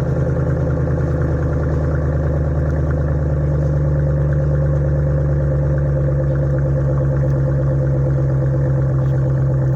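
Dodge Ram pickup's engine idling steadily after a cold start, heard through a muffler-delete exhaust with Dynomax Race Bullet resonators.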